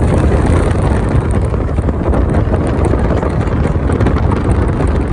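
Wind buffeting the microphone through an open car window, over the steady rumble of the moving car's road and engine noise.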